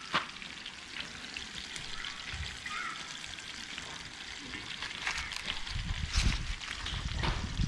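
Chicken leg pieces frying in hot oil: a steady sizzling hiss with scattered small pops. Low rumbling noise joins near the end.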